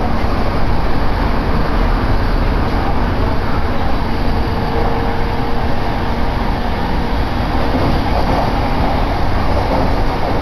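Inside a moving Tokaido Line commuter train: the steady rumble of the car running along the rails, with no breaks or sudden changes.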